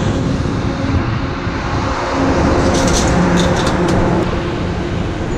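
Loud, steady city street traffic noise with engines running, and a short run of clicks and rattles about three seconds in.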